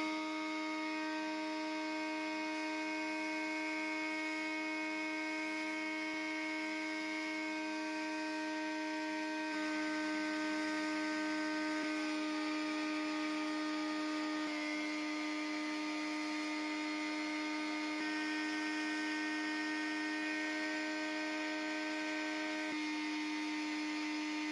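A small electric motor running with a steady, even hum. Its tone shifts slightly a few times.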